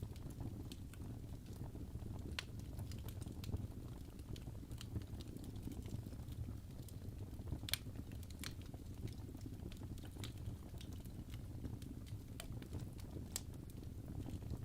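Wood fire burning in a fireplace: irregular sharp crackles and pops from the burning logs over a low, steady rumble of the flames, with one louder pop about halfway through.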